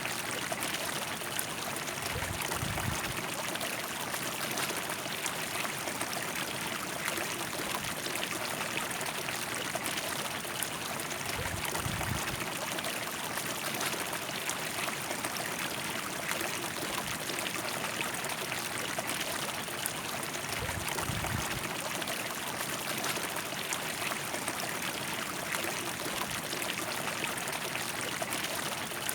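River water rushing and splashing over rocks in a steady, dense flow, with a few brief low rumbles.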